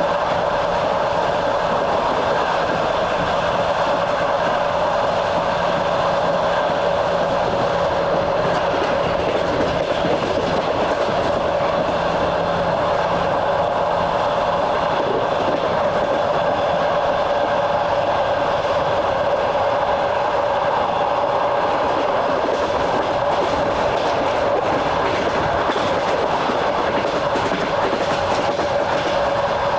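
Passenger train running steadily along the track, heard from on board: a continuous rumble of wheels on rails with a steady whine, and the clatter of wheels over rail joints.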